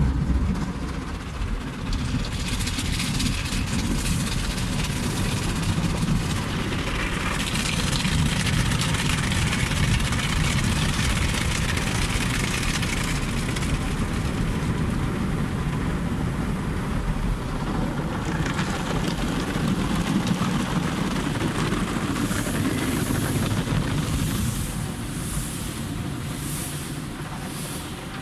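Automatic car wash machine at work: a steady rushing noise over a low mechanical rumble. Near the end a rhythmic swishing comes about once a second.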